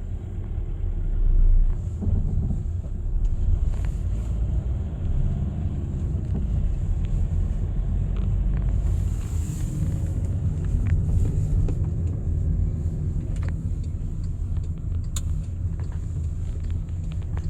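Steady low rumble of a car driving on city streets, engine and tyre noise heard from inside the cabin, with a brief louder swell about a second and a half in.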